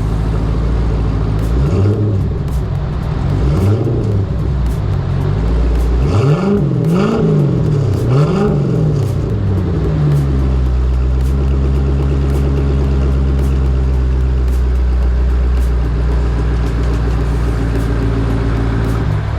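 C6 Corvette V8 breathing through a freshly installed SLP Loudmouth exhaust and Airaid cold air intake, idling and then revved: two blips of the throttle a couple of seconds in, three quicker rises and falls of the revs about halfway, then settling to a steady idle. First run after the install.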